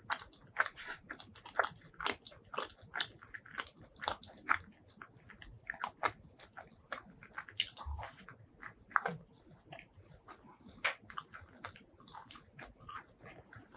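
Close-miked eating: a person biting and chewing food, with many short, sharp mouth clicks at an uneven pace.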